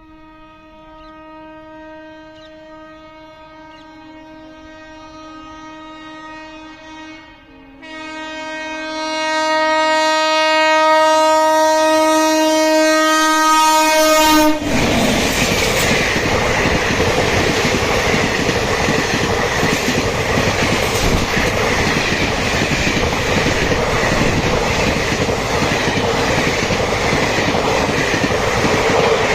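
A WAP5 electric locomotive's horn sounds a long blast as the Bikaner Intercity Express approaches at about 110 km/h, growing louder, with a short break about seven seconds in. About halfway through, the pitch drops as the locomotive passes and the horn stops, and the coaches rush past with loud, steady wheel and wind noise.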